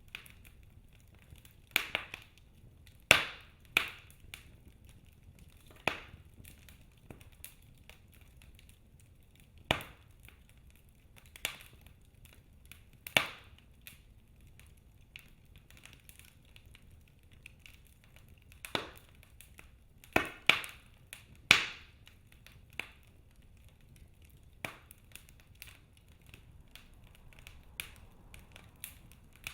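Wood fire burning in a fireplace: logs crackling with irregular sharp pops, several close together about two-thirds of the way in, over a faint low rumble of the flames.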